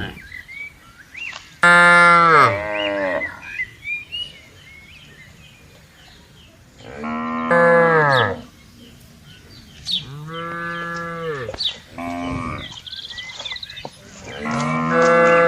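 Cattle mooing in a herd: about five separate moos, each long and falling in pitch at its end, with short pauses between, the last cut off at the end.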